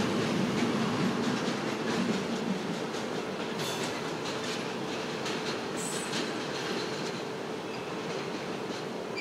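A train rolling along the track, with a steady running noise and many small wheel clicks. Two sharper, higher clicks come about four and six seconds in, and the sound slowly gets quieter.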